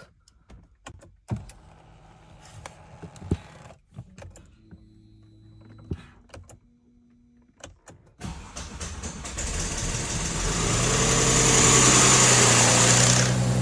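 Mercedes-Benz M272 3.0 V6 cold-starting about eight seconds in, after some faint clicks and a brief whine, then running at a raised cold idle that grows louder. The engine has an odd knock on cold start that comes once and goes away, which the mechanic suspects is the balance shaft or the timing chain.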